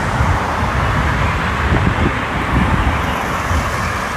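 Steady outdoor rumble of road traffic mixed with wind buffeting the microphone, low and uneven.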